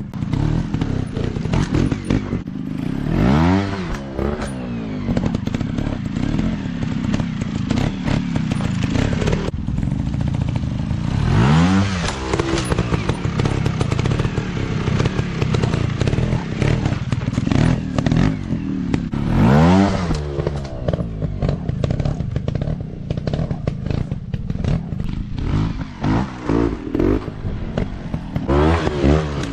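Dirt bike engines running, with rev surges that rise and fall in pitch about every eight seconds.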